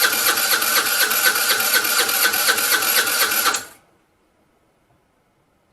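Vespa scooter's electric starter cranking the engine in a fast, even rhythm of about five or six beats a second without the engine catching: a no-start. The cranking stops suddenly after nearly four seconds.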